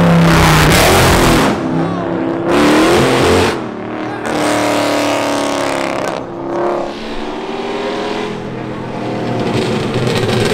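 Dodge Charger's engine revving hard as the car accelerates away, in several surges of throttle that rise and fall in pitch. Near the end another car's engine comes in, growing louder as it approaches.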